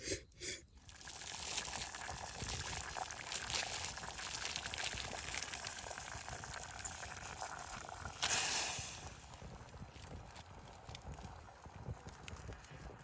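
Wood campfire burning, hissing with many small crackles. The hiss swells about a second in, is loudest in a brief flare near the 8-second mark, then dies back to a quieter crackle.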